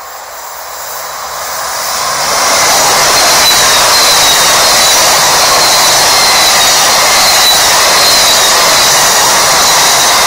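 NS intercity train passing close by at speed: wheel and rail rolling noise that grows over the first two seconds or so as the train comes up, then holds loud and steady as the blue-and-yellow coaches go by, with a faint high whine drifting slowly lower above it.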